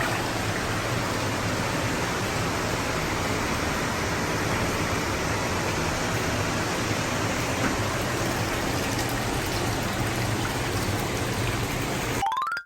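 Hot-spring water pouring steadily from the tap into a bathtub, a constant rush of running water. Near the end a short rising tone sounds and everything cuts off abruptly.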